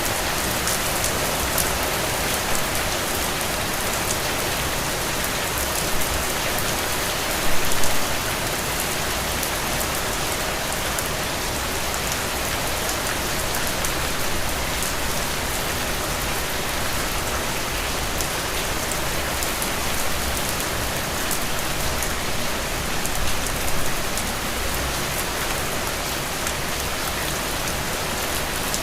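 Heavy rain falling steadily, a dense continuous patter of drops. Two brief louder spots stand out, about a quarter of the way in and again past three-quarters.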